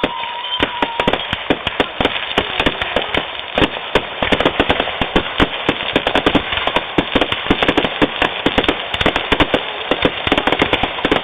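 Fireworks going off in a dense, rapid barrage of sharp cracks and bangs, many per second, without a break. A whistling firework tone fades out about a second in.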